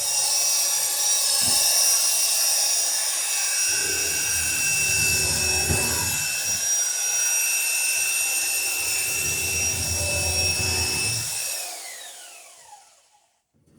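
Electric drill running with a steady high whine while boring rivet holes through two lapped wooden planks, with a lower rumble twice as the bit bites under load. Near the end the trigger is released and the whine falls in pitch as the motor spins down.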